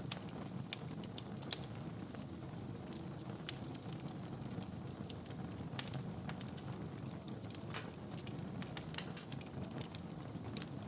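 Wood fire burning in a fireplace: a steady low rumble of the flames with frequent sharp, irregular crackles and pops of the burning logs.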